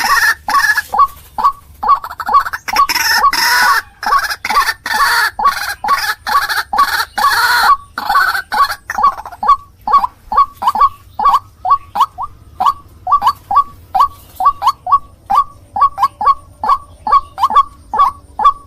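White-breasted waterhen (ruak-ruak) calling, a fast run of short, repeated notes at about three a second. A harsher, noisier stretch of calling runs from about two and a half to eight seconds in.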